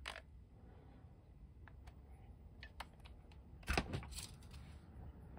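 Faint, scattered clicks and taps of small hard plastic toy parts and nails being handled, with a brief louder cluster of knocks a little under four seconds in.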